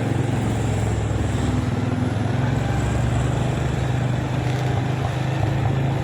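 Motorcycle engine running at a steady speed while riding, a constant low hum with road noise.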